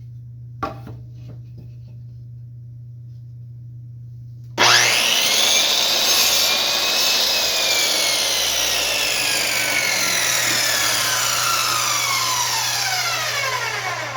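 Repaired electric chop saw starting up suddenly about four and a half seconds in, its motor and blade whine rising briefly and then sliding steadily down in pitch for about nine seconds, fading out near the end. A small knock comes just before.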